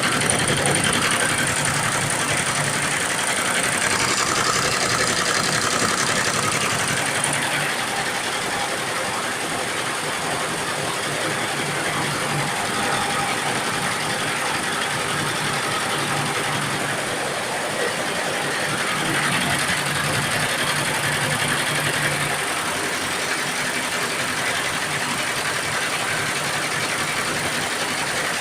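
Computerized embroidery machine running steadily, its needles stitching in a continuous mechanical clatter.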